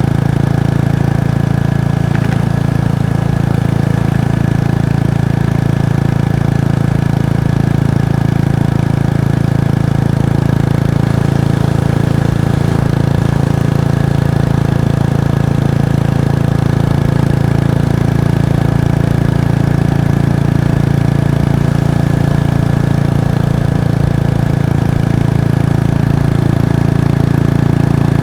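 Kawasaki Estrella's 249 cc air-cooled single-cylinder engine and exhaust running at steady revs, with no revving.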